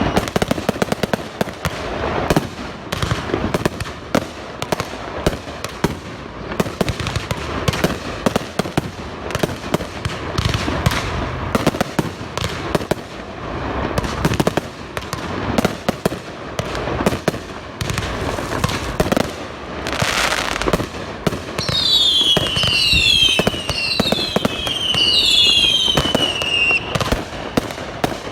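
Fireworks going off in a dense, continuous run of bangs and crackling. About three quarters of the way through, a series of shrieking whistles joins in, each one falling in pitch, several overlapping, one every second or so until near the end.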